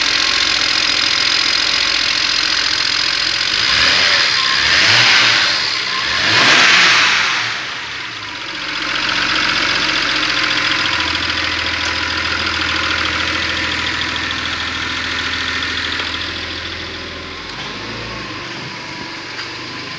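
BMW N54B30A twin-turbo straight-six idling, revved briefly twice about four and six seconds in, then settling back to a steady idle.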